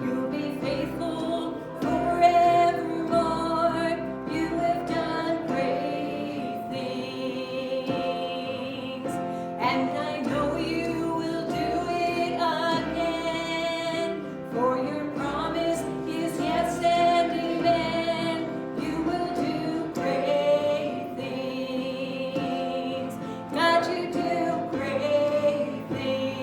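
Congregational worship song playing: singing over instrumental accompaniment, continuing without a break.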